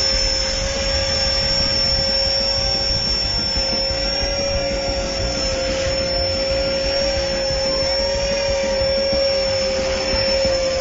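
Blade 400 electric radio-controlled helicopter in flight, its motor and rotor whine held at one steady pitch while it carries a hooked fish on its line.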